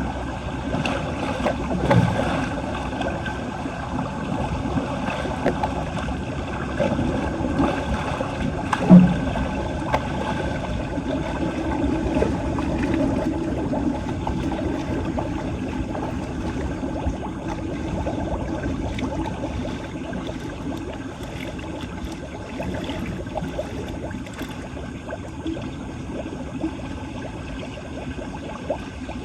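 Floodwater gurgling and running into a street drain, with a few knocks or splashes; the loudest is a thump about nine seconds in.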